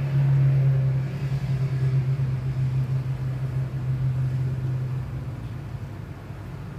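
A steady low hum that drops in level about five seconds in.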